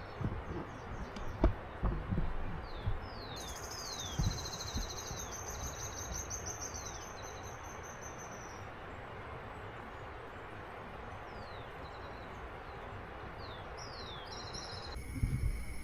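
Birds calling outdoors over a steady hiss of background noise: repeated short falling chirps and a trilled call. A few low thumps come in the first few seconds. Near the end the hiss drops away and steady high tones take over.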